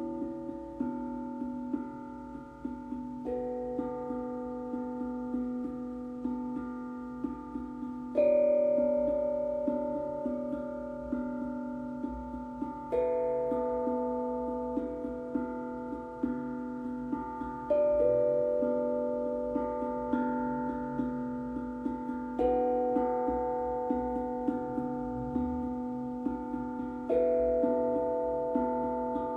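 Steel tongue drum (glucophone) and singing bowl played slowly, their metal tones ringing and overlapping over a steady low hum. A strong struck note comes about every five seconds, with lighter taps in between.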